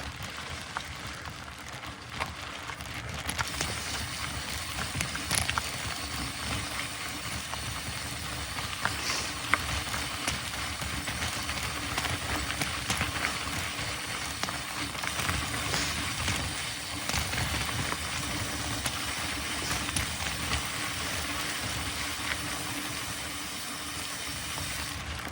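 Mountain bike rolling downhill: a steady rolling rush with scattered clicks and rattles.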